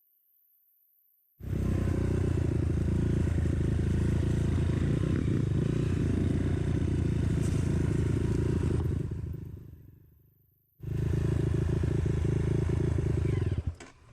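Trail motorcycle engine running steadily. It comes in suddenly, fades out, then starts up again abruptly and cuts off suddenly near the end.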